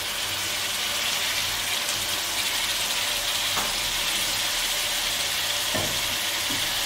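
Chopped tomatoes frying in hot oil and butter, a steady sizzle with a couple of faint clicks.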